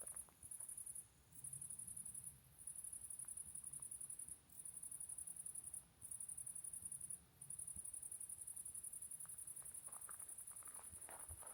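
Insects trilling, cricket-like: a faint, high, steady buzz broken by short pauses every second or two, then unbroken from about halfway on. A few faint crunches near the end.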